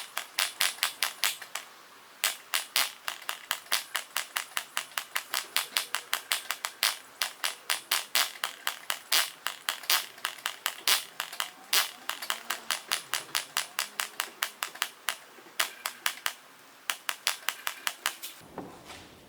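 ENYA 09 III model glow engine being cranked over by its propeller again and again, a rapid run of sharp clicks about five a second with a couple of short pauses, stopping shortly before the end. It does not fire: the engine has a compression leak.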